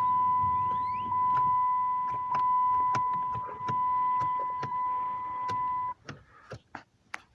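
A steady, high-pitched electronic warning tone, held without a break for about six seconds and then cutting off suddenly, with scattered sharp clicks throughout and just after it.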